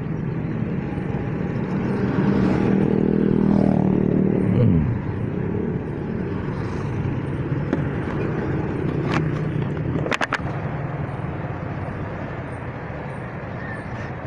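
Kawasaki Fury 125 underbone motorcycle engine running under way. Its pitch falls about five seconds in as the revs drop, then it settles into a steadier, quieter run. A few sharp clicks come around the nine- and ten-second marks.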